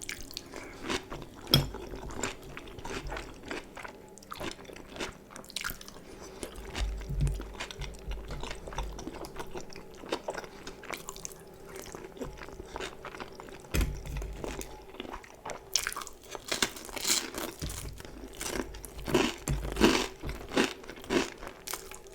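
Close-miked chewing of crunchy food: a run of sharp crunches and crackles between bites, growing denser and louder about two-thirds of the way through.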